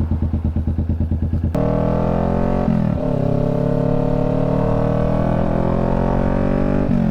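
Motorcycle engine idling with an even, lumpy pulse, then pulling away about one and a half seconds in and running under throttle with a slowly rising note, the pitch dropping for an upshift about three seconds in and again near the end.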